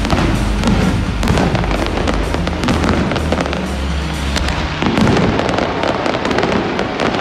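Fireworks going off: aerial shells bursting and crackling in a dense run of sharp pops, with music playing underneath whose low bass drops out about five seconds in.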